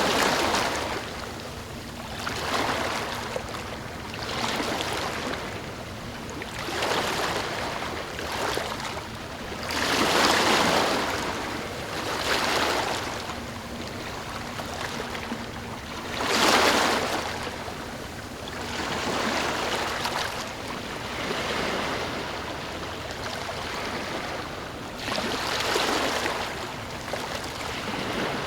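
Small ocean waves washing in one after another, a rushing hiss that swells and fades every two to three seconds, with bigger waves about ten and sixteen seconds in.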